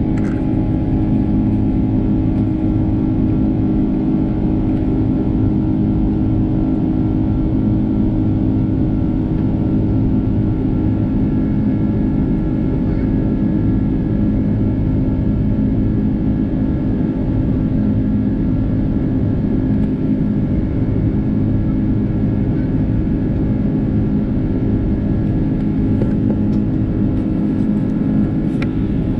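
Steady drone of an Airbus A330-300's Rolls-Royce Trent 700 turbofan engines and airflow heard inside the passenger cabin: a constant rumble with several steady humming tones and no change in level.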